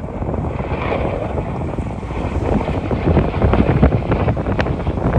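Jet aircraft roar at an airshow: a loud rushing noise with a crackle in it, growing louder from about three seconds in, with wind buffeting the microphone.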